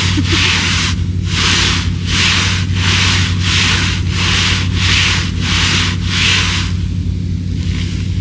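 Repeated scraping swishes of a person moving through icy, crusted snow, about one and a half strokes a second, stopping shortly before the end.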